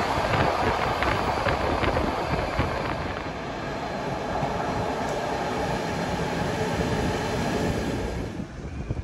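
Electric commuter train running on the rails: a steady rumble with scattered sharp clicks in the first few seconds. The sound drops away abruptly near the end.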